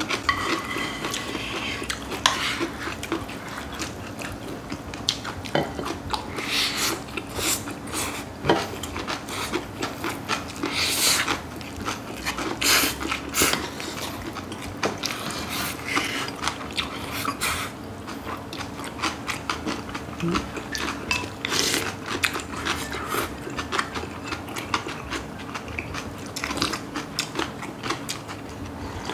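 Close-up chewing and crunching of crisp raw young radish greens in bibimbap, with spoons clinking against bowls and a metal pan in short irregular clicks.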